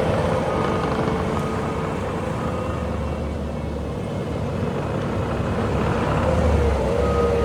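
Bobcat T740 skid steer's diesel engine running under operation, with a steady tone over its rumble; it eases off slightly midway and builds back up near the end.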